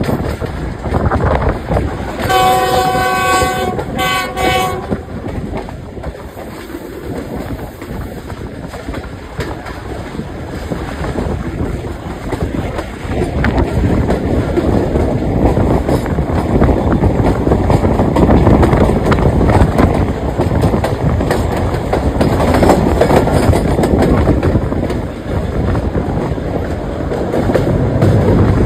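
Passenger train running over the rails, with wheel rumble and clatter. About two seconds in, the diesel locomotive sounds its chord horn for about two and a half seconds, with a short break near the end of the blast. The running noise grows louder from about halfway through.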